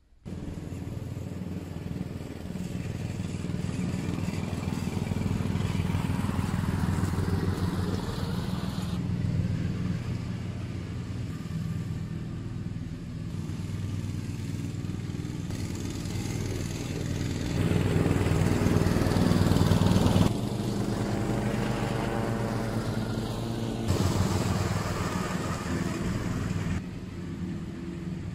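Petrol lawn mower engine running steadily while cutting long grass. Its level and tone jump abruptly several times.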